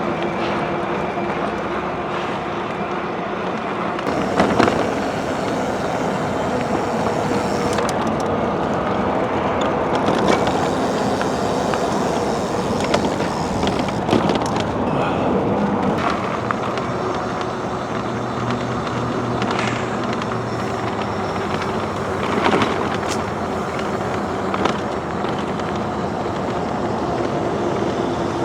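E-bike in motion on pavement: steady rolling tyre and wind noise with a faint steady tone, and a few brief knocks from the bike going over bumps.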